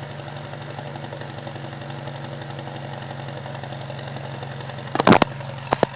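1996 Acura Integra LS's 1.8-litre four-cylinder idling steadily through a GReddy Ti-C cat-back exhaust with its silencer fitted, during warm-up shortly after a cold start. Near the end there is a loud knock, then a second, shorter one.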